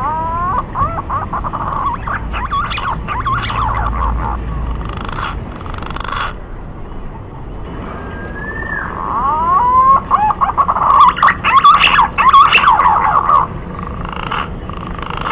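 Green pigeons (punai) calling in two bouts of wavering, gliding whistles, the second bout louder. This is a call recording used as a lure for hunting the birds.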